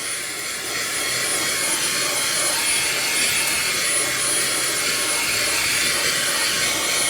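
Fanttik Slim V8 Mate cordless handheld car vacuum running on its second speed: a steady rush of air with a thin, high motor whine, as a small nozzle on its flexible hose sucks dust from the car's floor carpet.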